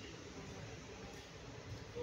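Faint steady running noise of a passenger train pulling slowly out of a station, heard from on board.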